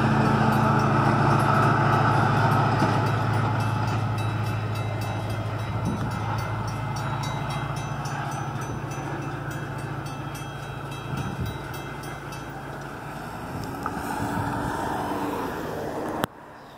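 Metra diesel locomotive and passenger train running away past a grade crossing: a steady low engine drone and rail rumble that fade as the train recedes, the engine note dying out about three-quarters of the way through. A sharp click near the end, after which it is much quieter.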